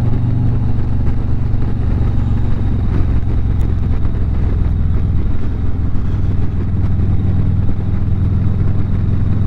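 Harley-Davidson V-twin motorcycle engine running steadily at highway cruising speed, with road and wind noise.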